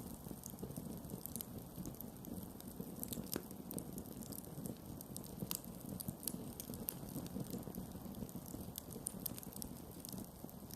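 Campfire burning: a steady low noise of the flames with scattered sharp crackles and pops at irregular intervals, two of them stronger, about three and a half and five and a half seconds in.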